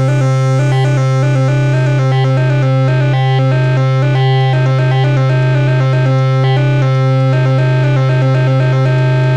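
Erica Synths Black System III modular synthesizer playing a steady low drone under a fast sequenced pattern of short synth notes.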